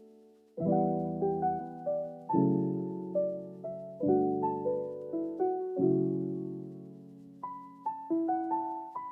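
Gentle solo piano music: chords and single melody notes struck one after another and left to ring out, after a brief pause near the start.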